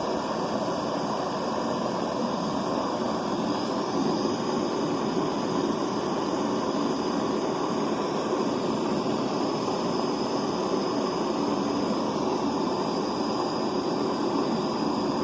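Handheld butane torch flame hissing steadily as it heats an aluminium bar toward the temperature needed for aluminium brazing rods to flow.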